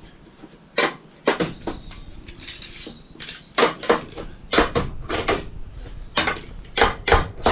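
Scrap metal being handled, with about nine sharp clanks and knocks at uneven intervals.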